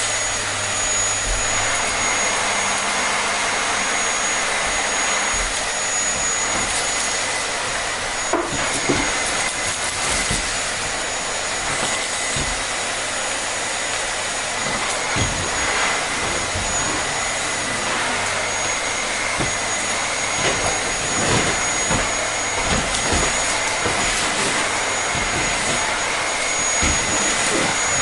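Vacuum cleaner running steadily: a continuous rushing hiss with a thin high-pitched whine over it, and a few faint knocks in the second half.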